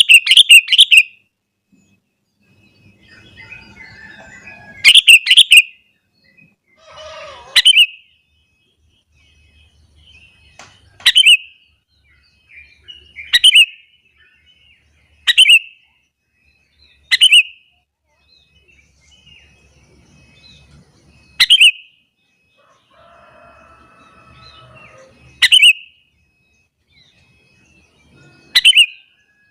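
Sooty-headed bulbul calling: short, loud, bright phrases repeated every two to four seconds, the first two made of several quick notes and the later ones single short calls.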